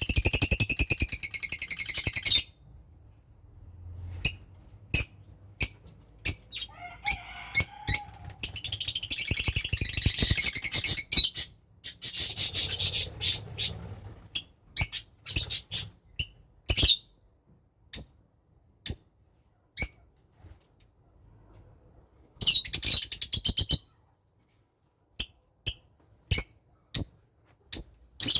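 Birds calling: three bursts of rapid, high chattering calls a couple of seconds each, at the start, around ten seconds in and near the end, with single short chirps scattered between.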